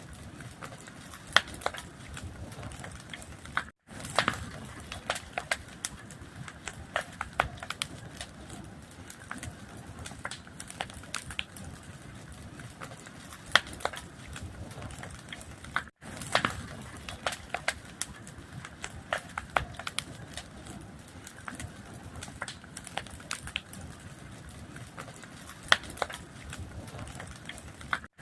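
Fire crackling, with irregular sharp pops and snaps over a steady low rush. The sound drops out for an instant twice, about twelve seconds apart.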